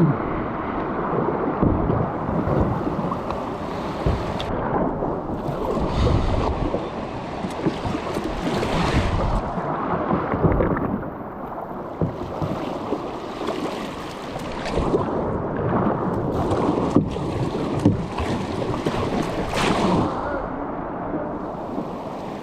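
Water rushing and splashing around a kayak, surging every couple of seconds.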